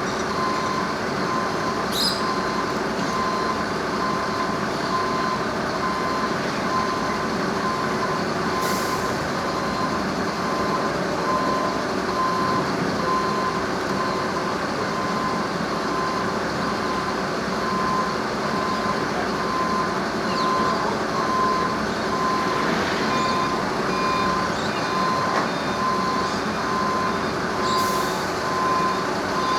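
A vehicle's reversing alarm beeping repeatedly at a steady pace, over a steady rumble of vehicle noise, with a few faint clicks.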